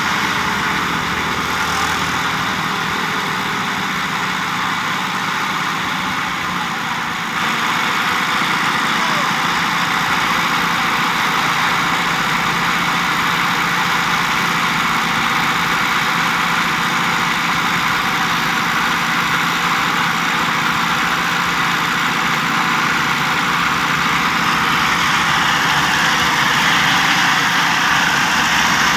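Old Massey Ferguson 285 tractor's diesel engine running steadily. It picks up about seven seconds in and grows a little louder toward the end, as it drives the hydraulics that tip a trolley.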